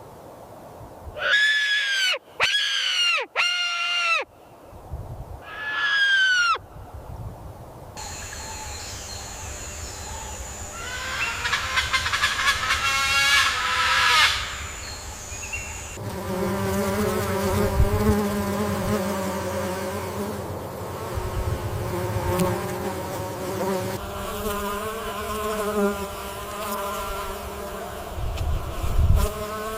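Four short calls that arch up and fall in pitch, then a steady, wavering buzz like a flying insect's wings.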